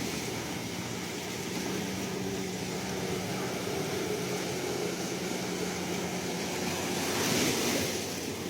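Ocean surf: a steady wash of waves, with one wave swelling louder and breaking about seven seconds in. A faint low steady hum runs under it.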